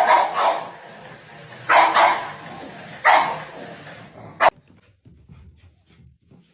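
A dog barking: about five loud barks in the first four and a half seconds, ending in a sharp click, after which the sound drops off suddenly.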